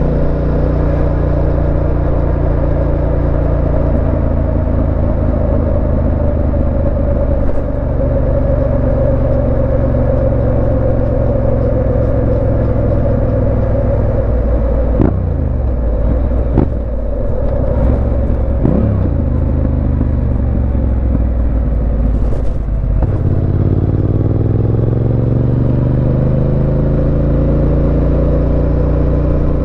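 Yamaha Tenere 700's parallel-twin engine running on the road at a steady note. In the middle its pitch dips and recovers quickly three times. A little after that it falls away, then climbs steadily as the bike accelerates.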